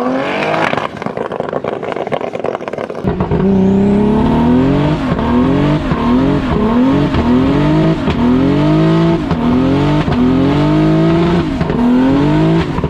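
Car engine being driven hard in a drift, revs climbing and falling about once a second after a noisy first few seconds.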